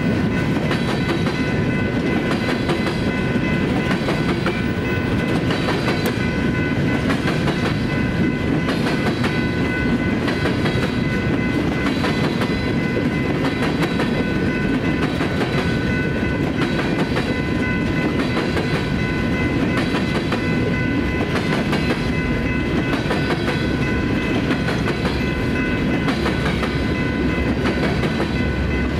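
Empty steel coal hopper cars rolling past, their wheels clattering steadily over the rail joints. A constant high ringing from the grade-crossing warning bell runs above the rumble of the cars.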